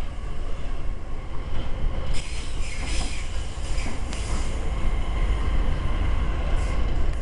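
Train running on rails, heard from inside a moving carriage as a steady low rumble, with a high wheel squeal from about two seconds in that lasts around two seconds.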